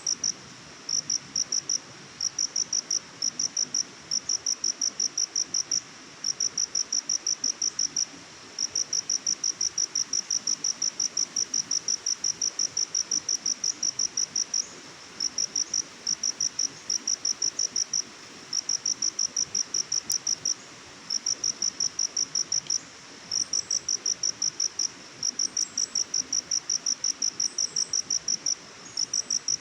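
Cricket chirping: rapid high-pitched chirps, about ten a second, in runs broken by short pauses, over a soft steady hiss.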